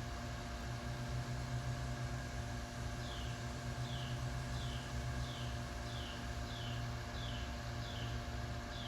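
A steady low hum, with a faint, high chirping call joining about three seconds in. The call repeats about twice a second, and each chirp falls in pitch.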